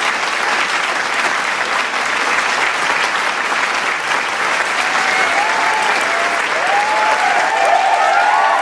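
Large studio crowd applauding with dense, steady clapping; whoops and shouted cheers come in over the second half and grow toward the end.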